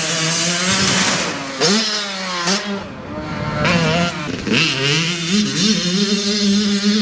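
Dirt bike engine revving under throttle, its pitch climbing and dropping several times as the rider works the throttle and shifts.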